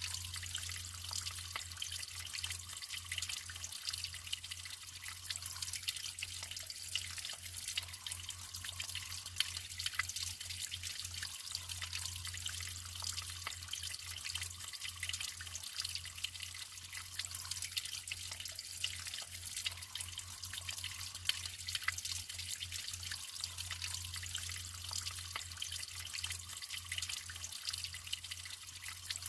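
Natural water flowing and trickling, with many small drips and splashes over a steady hiss.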